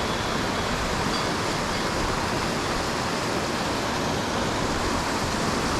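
Mountain torrent rushing steadily over rocks, a constant even wash of water noise.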